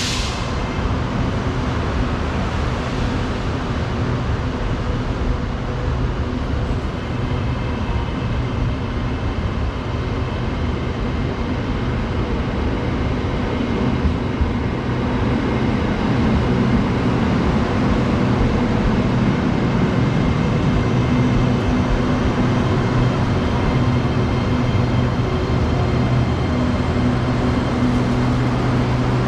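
SRT Red Line electric commuter train running steadily, a continuous rumble with a low electric hum that grows slightly louder about halfway through. There is a brief hiss right at the start.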